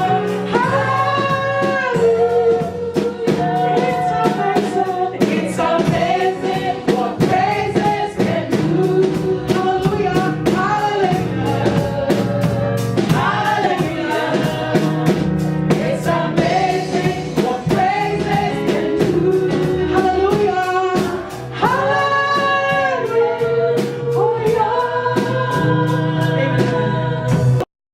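Gospel worship music: several voices singing over instruments with a steady beat, cutting off abruptly near the end.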